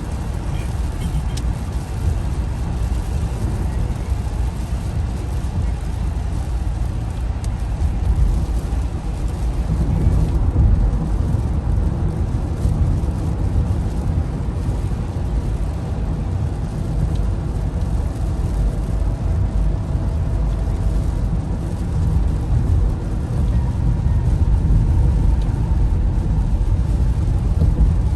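Steady low rumble of heavy rain mixed with road traffic noise. It swells a little about ten seconds in and again near the end.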